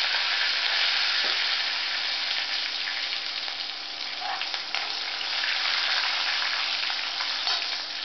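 Curry leaves and chillies sizzling in hot oil in a wok, a tadka (tempering) for sambar, with a steel spoon stirring them. The sizzle is steady and eases slightly toward the end.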